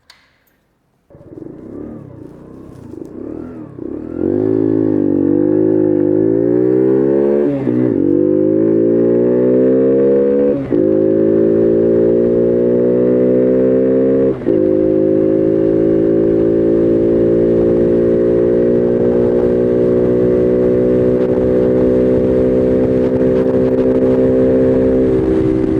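Bullit Heritage 125cc monkey bike's single-cylinder engine pulling away and accelerating through the gears, its pitch rising in each gear and dropping at three quick upshifts. It then runs steadily at cruising speed for the second half.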